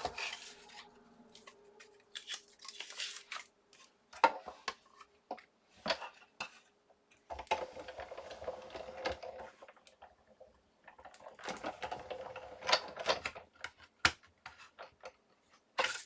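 Sizzix Big Shot die-cutting machine being cranked, the plates running through its rollers in two stretches of a few seconds each, among sharp clicks and clatter of cutting plates and dies being handled.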